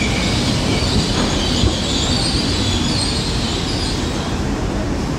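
Great Western Railway Class 800-series Intercity Express train moving along the platform, a steady rumble of wheels and running gear with a high squeal over it that fades about four seconds in.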